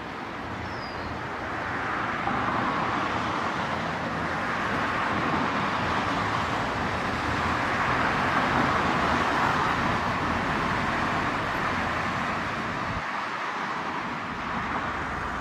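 Road traffic noise: an even hiss of passing vehicles that swells through the middle and eases off near the end.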